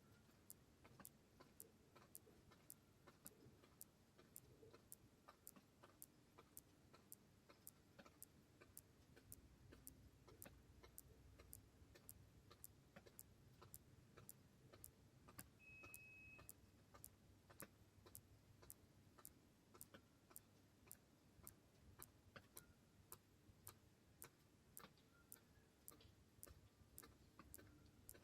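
Faint, evenly spaced ticking, about two ticks a second, over a low rumble that swells about nine seconds in. A brief high beep sounds about halfway through.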